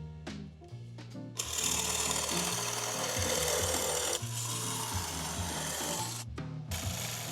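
Power tool cutting into a wooden block, in two runs with a short dip between them, over background music.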